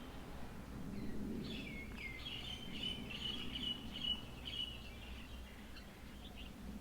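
Birds chirping and calling, a close run of short high chirps with a few quick falling notes through the middle, over a steady low background hum.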